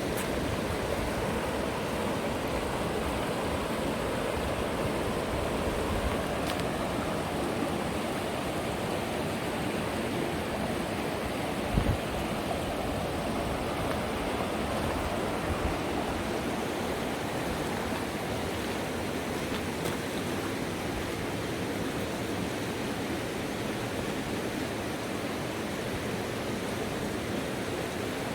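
River water rushing steadily over rapids, a constant even roar. A single brief low thump comes about twelve seconds in.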